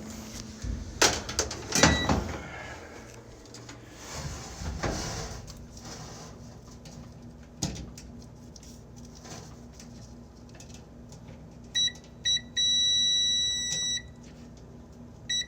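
Multimeter continuity beeper sounding across a dryer heating element: two short beeps, then a steady high beep of about a second and a half, and another starting near the end. The beep shows a closed circuit through the element, so the element is good. Before the beeps come a few clicks and knocks.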